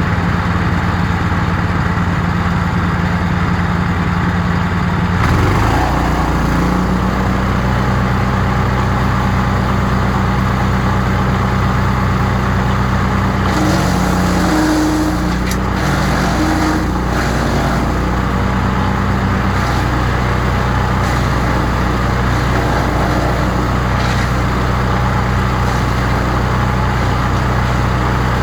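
Crytec 15 hp wood chipper's engine running steadily. Its note shifts lower and fuller about five seconds in, with a rougher, busier stretch around the middle.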